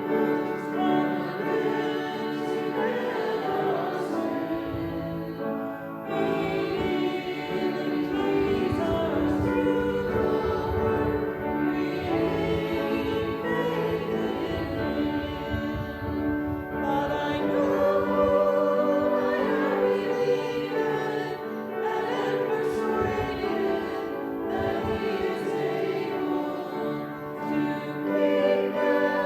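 Congregation singing a hymn in sustained sung phrases, with brief breaks between lines.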